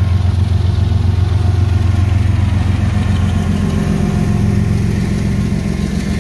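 Freight train passing close by: a Norfolk Southern diesel locomotive's engine gives a loud, steady low rumble as it rolls past. Near the end the boxcars behind it follow, rolling over the rails.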